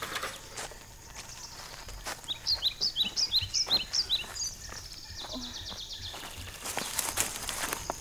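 A bird calling in a quick series of short high chirps, over footsteps and rustling in dry leaf litter.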